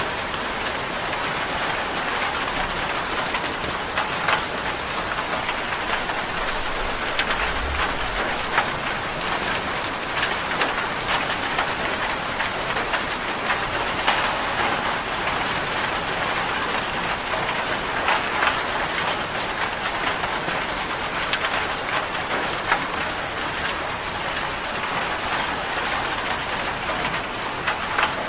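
Steady rain falling, an even hiss dotted throughout with many small sharp ticks.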